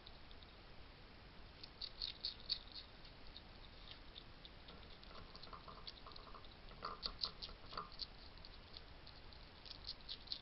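Wild hedgehogs at a feeding station, heard as faint clusters of quick small clicks and crunches, each lasting about a second, a few seconds apart, over a steady low hiss.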